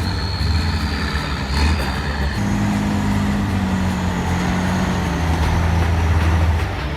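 Truck engine running steadily, with a thin high whine at first; about two and a half seconds in, a lower engine note sets in and slowly falls in pitch.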